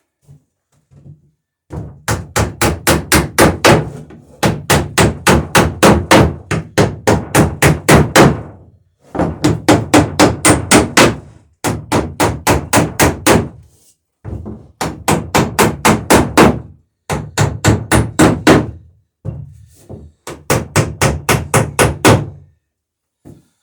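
Hammer peening rivets over burrs on a wooden boat's planking: six quick runs of sharp, rapid blows, about four to five a second, with short pauses between runs.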